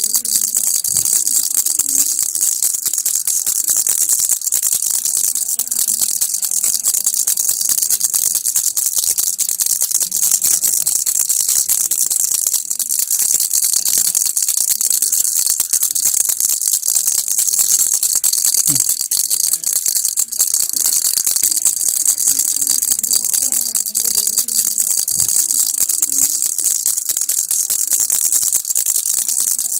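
Baby rattle shaken continuously, a dense, steady high-pitched rattling with no pauses.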